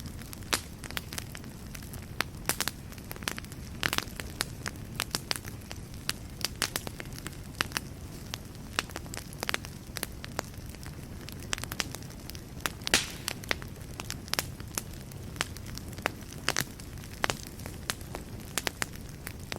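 Wood fire burning in a fireplace, a steady low rumble with many irregular sharp crackles and pops, one louder pop about two-thirds of the way through.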